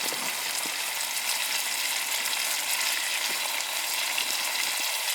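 Steak and mushrooms sizzling steadily in butter in a frying pan, with faint crackles.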